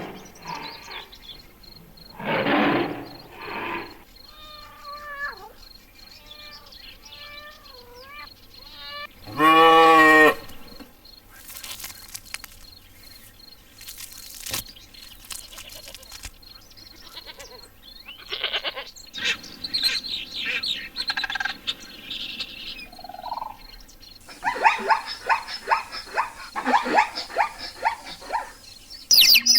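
A string of different animal calls, one clip after another. There are wavering pitched calls, then one loud short call with a rich stack of tones about ten seconds in, scattered clicks, and in the second half rapid chirping calls.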